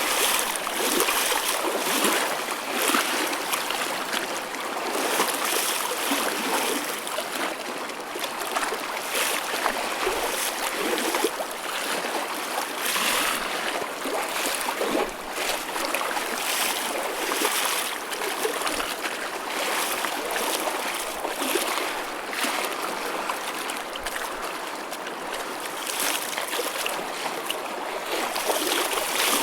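Choppy ocean waves washing and splashing, a continuous hiss with many small irregular splashes.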